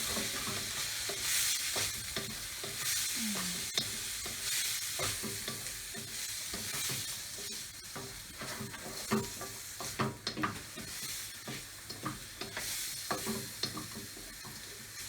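Fried rice sizzling in a hot pan while it is stirred and tossed, with frequent scraping knocks of the utensil against the pan.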